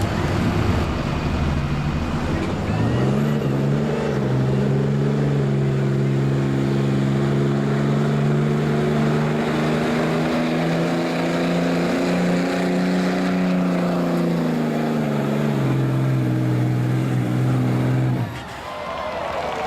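A street diesel pickup's engine under full load pulling the sled: it climbs in pitch about three seconds in and holds high and steady for around ten seconds. It then drops back and cuts off suddenly near the end.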